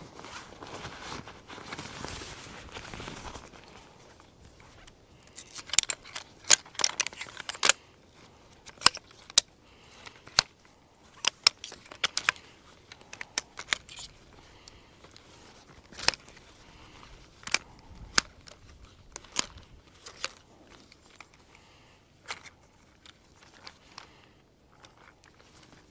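Rustling for a few seconds, then many irregular sharp clicks and clinks, like camping gear being handled and set up.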